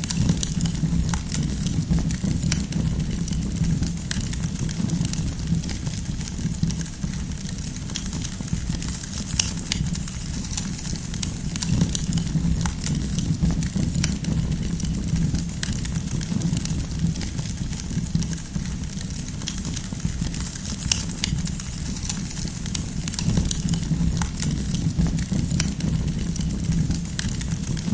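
Wood campfire crackling, with frequent small irregular pops and snaps over a steady low rumble.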